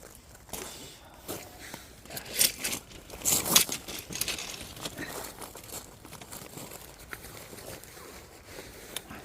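Firewood burning in a campfire, crackling with irregular pops and snaps, with louder bursts of crackling about two and a half and three and a half seconds in.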